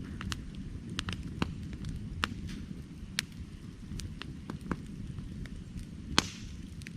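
Burning firewood crackling: irregular sharp pops and snaps over a steady low rumble of the flames, with one louder pop a little after six seconds.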